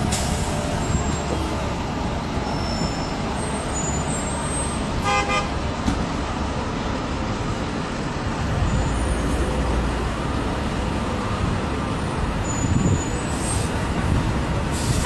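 Steady street traffic noise, with a vehicle horn sounding briefly about five seconds in.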